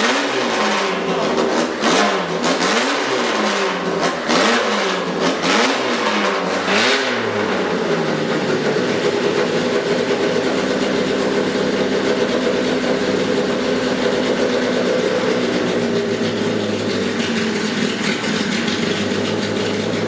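Fiat 127 engine on its first runs, revved in a series of short blips, about one a second, then settling to a steady idle about seven seconds in.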